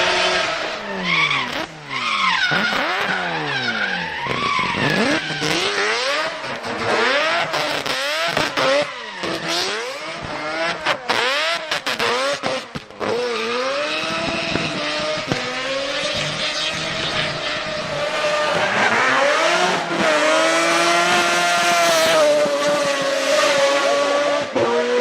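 Drift car engine revving hard, its pitch swinging up and down over and over with tyres squealing, then holding high revs steadily through a long slide in the last several seconds.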